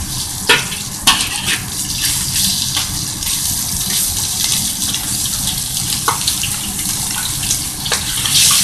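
Cornstarch-coated chicken slices sizzling steadily as they are dropped into hot oil in a wok, with a few sharp clinks of the metal spatula against the wok.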